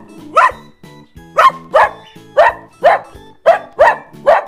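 A small dog, a Maltese, barking sharply about eight times, often in quick pairs, over light background music.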